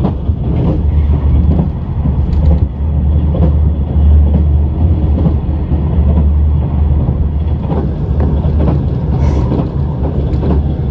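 Train running: a steady low rumble with light rattling and no let-up.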